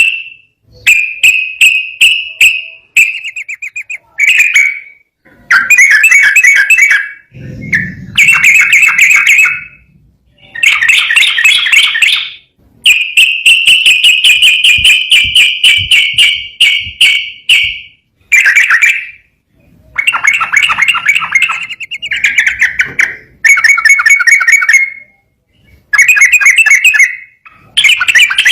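Trucukan (yellow-vented bulbul) singing a long string of rapid, chattering whistled phrases, each one to several seconds long, with short pauses between them.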